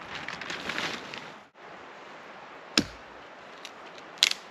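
Sharp knocks: one loud single impact a little after the middle and a quick double knock near the end, over a steady background hiss.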